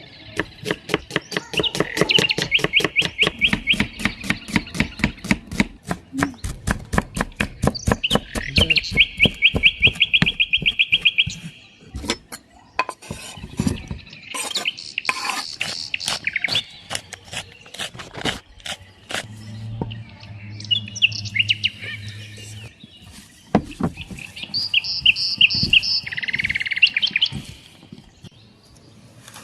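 Small birds chirping in quick, repeated trills, with a rapid run of sharp knocks, several a second, through the first half.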